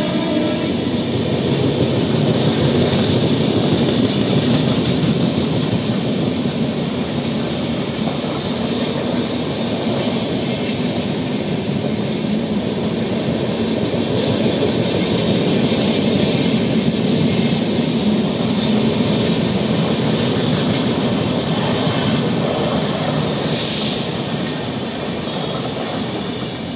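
An express train's LHB passenger coaches passing at high speed without stopping: a steady rumble and clatter of steel wheels on the rails. A brief higher-pitched hiss comes near the end, and the sound eases slightly as the last car goes by.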